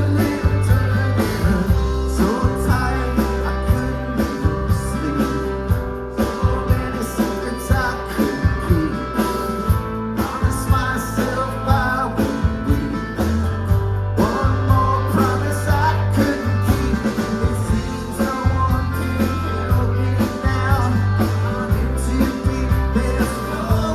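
Live rock band playing: guitars over drums keeping a steady beat.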